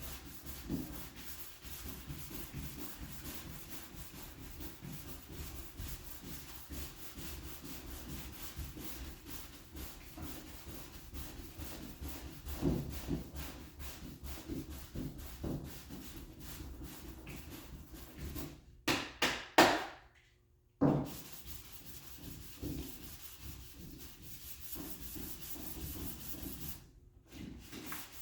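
Sanding block with fine-grit sandpaper rubbed back and forth over high-build primer on a car body panel, a steady run of quick scratchy strokes. There are a few louder strokes about two-thirds through, then a brief pause in the sanding, and another short pause near the end.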